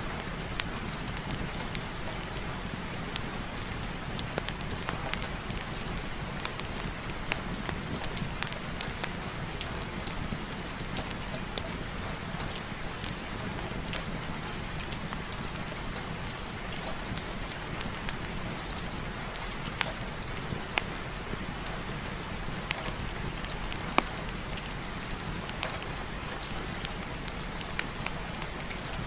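Steady heavy rain, a continuous even hiss with scattered sharp pops and crackles through it.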